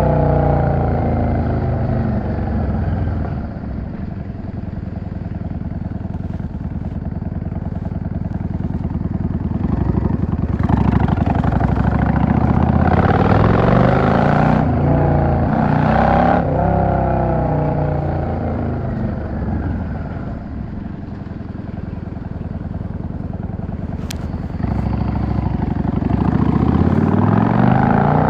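Yamaha XVS 650 V-Star's air-cooled V-twin engine under way: the engine note drops as it comes off the throttle at the start and stays low for several seconds. It climbs and falls twice with acceleration in the middle, settles low again around twenty seconds in, and rises near the end.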